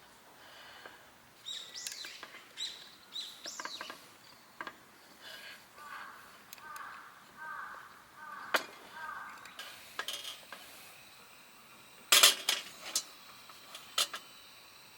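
Light clinks and taps of tableware or utensils, scattered, with a quick cluster of sharp clinks about twelve seconds in. A bird calls a series of short repeated notes in the middle.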